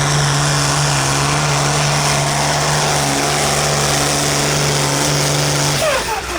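Modified Massey pulling tractor's engine running hard at a steady, high pitch under full throttle while pulling the sled. Near the end the throttle comes off and the engine note falls away abruptly.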